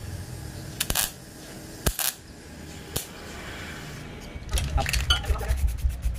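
A few sharp metallic clinks, like tools or small engine parts being handled and set down. About four and a half seconds in, a low, fast pulsing rhythm starts and carries on.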